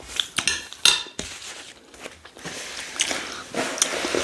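Spoon clinking and scraping against a plate during a meal of rice and stew, a few sharp clicks with some scraping between them.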